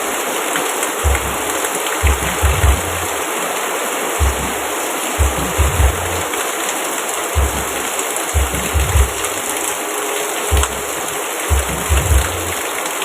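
Steady rain falling, an even hiss, with short low thumps every second or two underneath.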